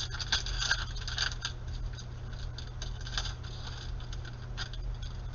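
Trading cards being handled and flipped through by hand: a run of quick soft scuffs and flicks of card stock, busiest in the first second and a half, over a steady low hum.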